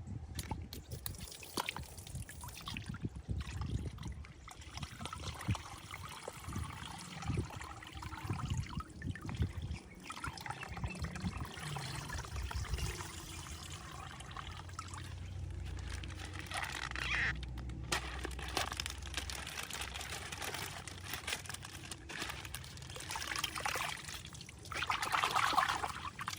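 Plastic bag crinkling and rustling as it is handled and opened, with irregular crackles.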